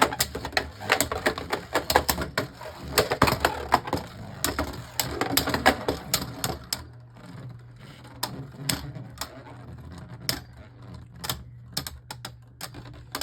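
Two Beyblade Burst tops spinning in a plastic stadium, knocking together in rapid, irregular clicks over a steady low whir. The clashes thin out over the second half as one top winds down, ending in a survivor finish for Dullahan.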